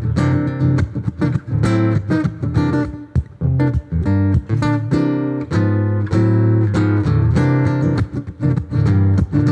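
Solo guitar playing a song's opening riff: rhythmic plucked and strummed chords, one attack after another.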